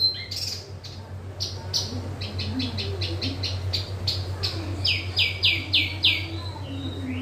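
Wambi songbird singing vigorously: a long run of short, sharp, repeated chirps, about three a second, starting after a brief lull in the first second. A steady low hum runs underneath.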